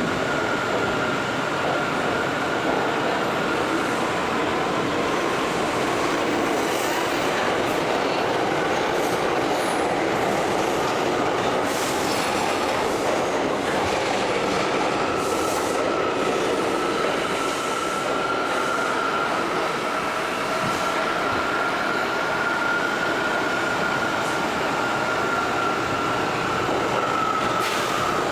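R179 subway car running along the track between stations, a steady rumble of wheels and car body heard from on board. A thin high squeal sits on top of it, fading out about four seconds in and coming back about halfway through, then holding with a slight drift in pitch.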